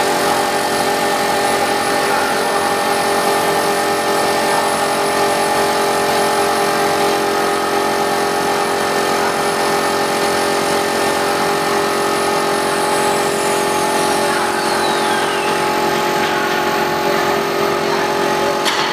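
CNC router's automatic-tool-change spindle running steadily while engraving, a continuous machine whine made of several steady tones over cutting noise. About two-thirds of the way in, a faint high tone falls in pitch, and sharp clicks come right at the end.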